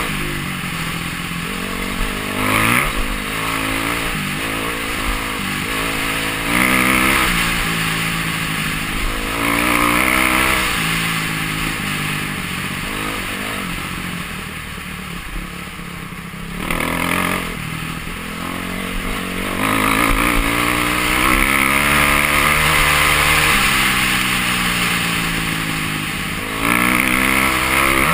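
Dirt bike engine heard from on board while riding, revs climbing and dropping again and again as the rider accelerates and backs off through the gears, with wind rushing past the camera.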